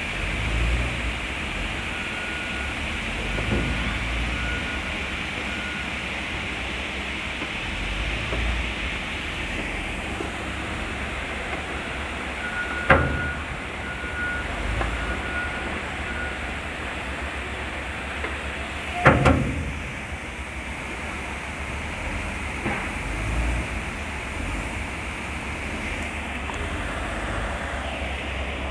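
Steady machinery noise with runs of short, evenly spaced electronic warning beeps at one pitch, like a reversing or moving-equipment beeper. Two sharp, loud knocks sound, one about 13 seconds in and another about 19 seconds in, along with a few softer low thumps.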